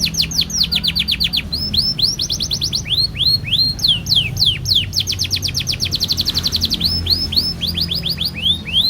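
Domestic canary singing a long, continuous song of rapid trills: runs of quick repeated notes, falling sweeps alternating with rising ones, each run changing to a new note type every second or so.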